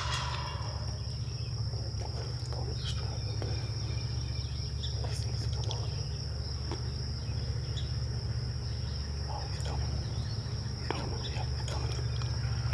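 Steady high-pitched insect drone, with a constant low hum underneath and small scattered rustles.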